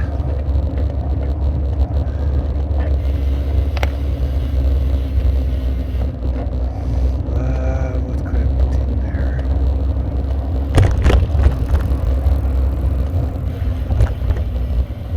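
Bicycle riding over a rough road, heard as a steady low rumble through a handlebar-mounted camera, with vibration noise that the rider puts down to either vibrating armrests or the DJI mount. A brief wavering tone sounds about halfway, and a few sharp knocks come about eleven seconds in.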